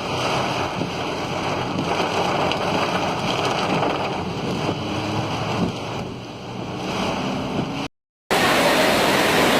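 Steady rushing noise of heavy monsoon rain and wind buffeting the microphone. It drops out completely for a moment near the end and comes back louder.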